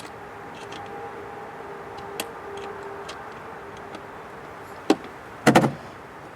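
Clicks and knocks of hand tools and plastic intake parts being handled while the mass air sensor's screws are worked loose: a sharp click about two seconds in, a knock near five seconds and a short clatter just after, over a faint steady hum.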